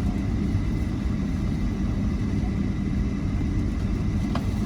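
Airliner cabin noise while taxiing to the runway: a steady low rumble of the engines and airframe with a faint steady whine, and a single click near the end.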